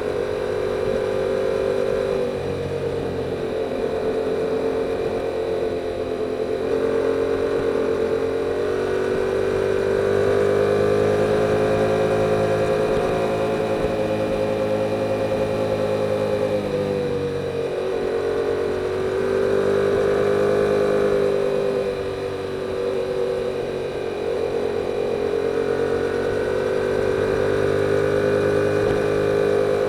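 2022 Yamaha R7's 689 cc parallel-twin engine through its stock exhaust, running steadily while riding along, the revs rising and falling gently. The engine note drops briefly twice, a little past halfway.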